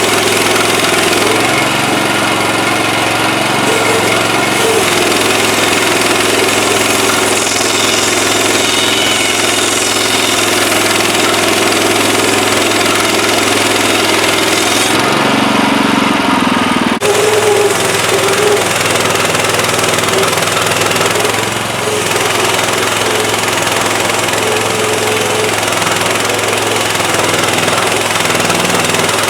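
Small gasoline engine of an HM130MAX portable band sawmill running steadily, with one sharp click partway through.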